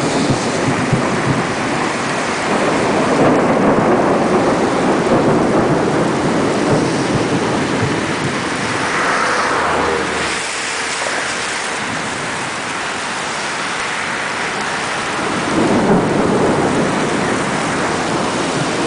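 Tropical thunderstorm: heavy rain with a steady, dense hiss that eases a little about ten seconds in and swells again near the end.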